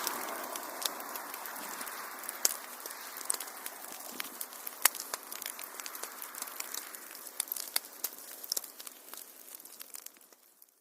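Wood fire crackling, with sharp irregular pops over a soft hiss that fades out near the end.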